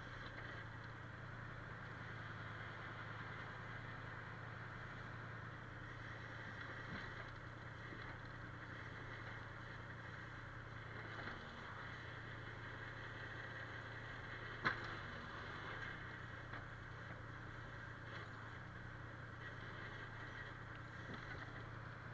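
A steady low engine hum, like a machine running at idle, with one sharp click about two-thirds of the way through.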